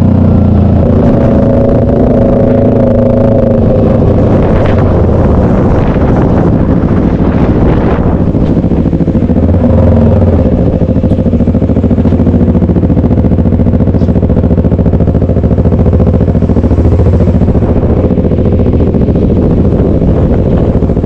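Motorcycle engine heard through a bike-mounted camera, its pitch rising and falling through the first half, then settling lower and steadier. Wind buffets the microphone.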